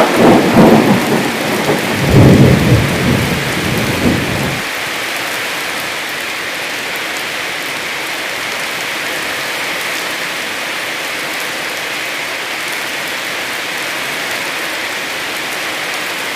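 Heavy rain falling steadily, with a rolling crack of thunder over the first four seconds or so that stops abruptly; after that only the even hiss of the rain.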